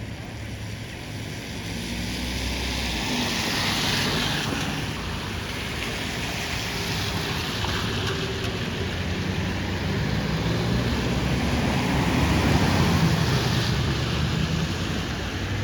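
Road traffic: vehicles passing on a city street, engine and tyre noise swelling and fading about three times.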